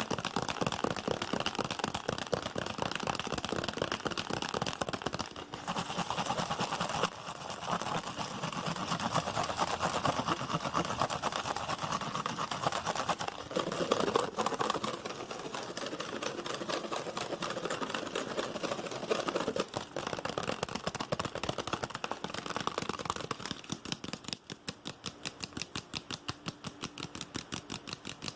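Fast, aggressive ASMR tapping: a dense stream of quick taps and clicks, slowing near the end to separate taps a few per second.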